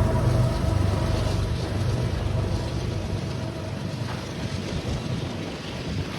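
Train running noise and low rumble slowly fading as it moves away, with wind buffeting the microphone.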